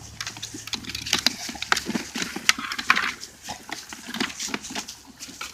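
A pit bull–Labrador mix gnawing and tugging at the plastic tires of a child's ride-on toy tractor: irregular sharp clicks and scrapes of teeth on plastic, mixed with the dog's own breathing and grunting.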